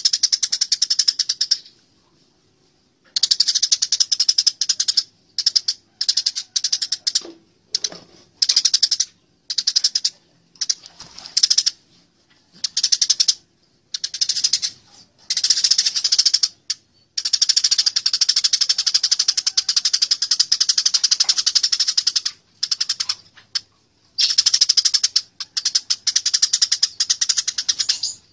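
Eurasian tree sparrows fighting: fast, harsh chattering calls in bursts from under a second to several seconds long, with short breaks between them.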